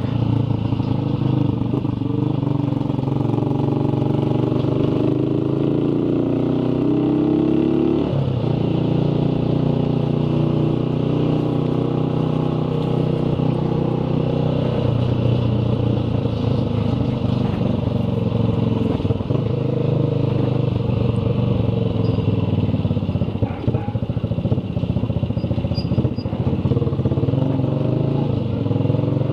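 Motorcycle engine running under way, its pitch climbing for the first eight seconds or so and then dropping suddenly at a gear change, after which it holds a fairly steady pitch, with road and wind noise.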